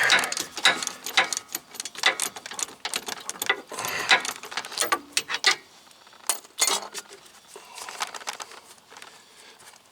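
Hand ratchet wrench clicking in quick runs as a brake caliper bolt is turned out; the clicking thins out after about five and a half seconds, with a last few clicks near seven seconds.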